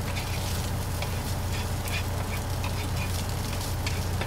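Chorizo and eggs sizzling in a skillet, with scattered pops and crackles over a steady low hum.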